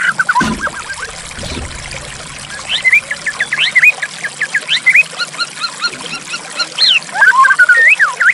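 White-rumped shama (murai batu) singing over a steady trickle of running water: a trill ends just after the start, then after a short pause the bird resumes about three seconds in with a rapid run of sharp, gliding whistled notes.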